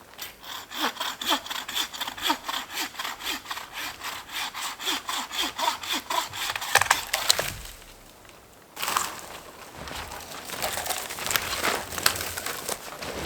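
Bear Essentials bucksaw cutting dead, partly rotten standing wood with quick, even strokes, about three or four a second, for some seven seconds. After a short pause come irregular cracks and crunches.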